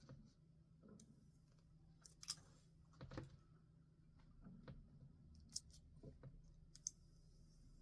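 Faint stationery handling while journaling: quiet paper rustles and a few short, sharp clicks, the sharpest about two seconds in and two more in the last couple of seconds.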